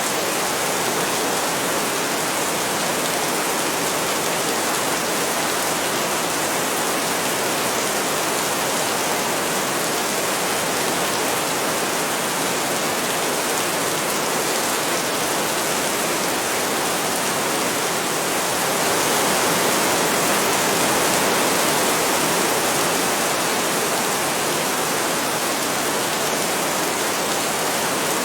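Heavy rain falling steadily, swelling a little about two-thirds of the way through.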